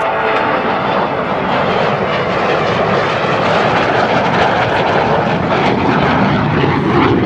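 Jet noise from a MiG-17PF's VK-1F turbojet as the fighter flies its display, loud and steady, with the pitch sliding down near the end as it passes.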